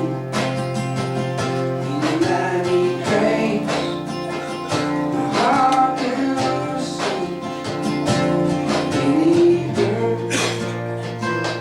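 Live acoustic country music: strummed acoustic guitar with a voice singing.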